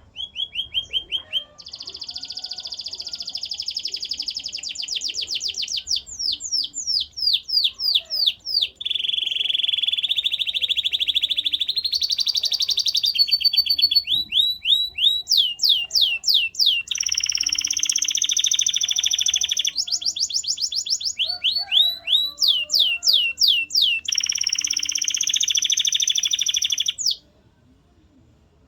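Male canary singing one long, continuous song of rapid trills and quickly repeated sweeping notes, shifting to a new repeated figure every second or two, ending about 27 seconds in.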